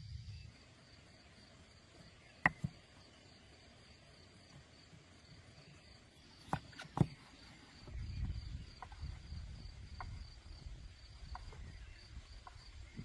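Crickets chirping steadily in a fast, high pulsing trill. It is broken by a few sharp knocks, one about two and a half seconds in and two close together about seven seconds in, with a low rumble in the second half.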